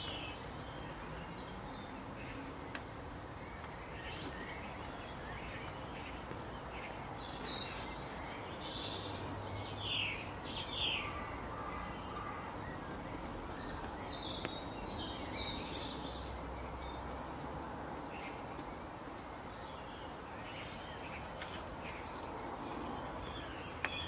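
Several wild birds chirping and calling in short, scattered phrases over a steady outdoor background hiss.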